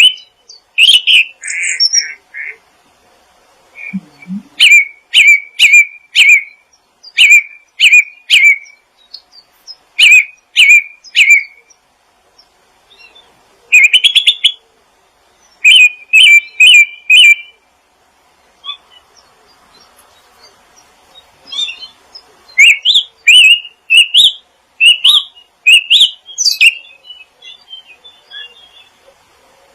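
A songbird chirping in quick runs of three to five sharp, repeated notes, with short pauses between the runs and a longer lull a little past the middle.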